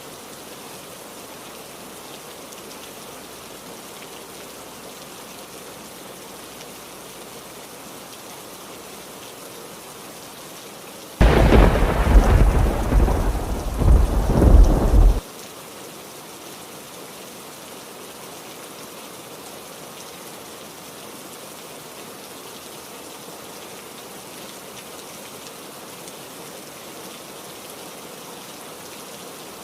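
Steady heavy rain, with a loud thunderclap about eleven seconds in that lasts about four seconds, swells twice and cuts off suddenly.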